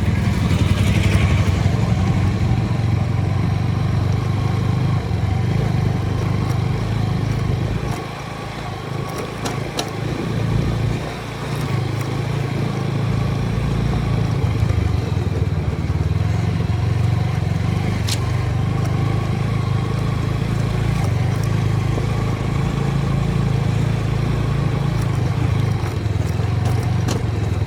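TVS Apache single-cylinder motorcycle engine running steadily. Its level drops for a few seconds about eight seconds in, then comes back up.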